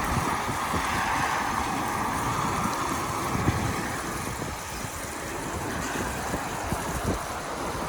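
Steady rushing hiss of tyres rolling on wet pavement, with wind noise and a low rumble, easing off slightly toward the middle.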